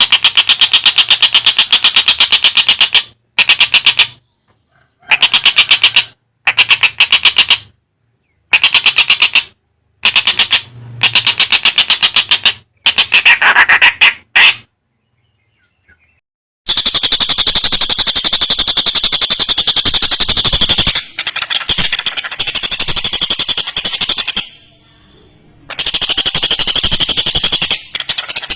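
Tengkek buto kingfisher giving loud, fast rattling cackles in bursts of one to three seconds with short silences between, then one long, nearly unbroken rattle through the last third.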